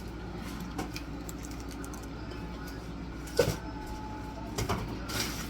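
Kitchen items knocked and set down over a steady low hum: scattered light clicks, one sharp knock about three and a half seconds in, and a short clatter near the end.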